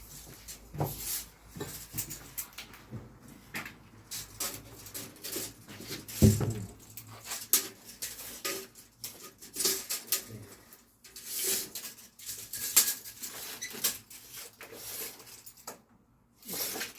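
Hand work on ceiling framing: irregular scraping, rustling and clicking as wooden battens are handled and worked, with one loud thump about six seconds in.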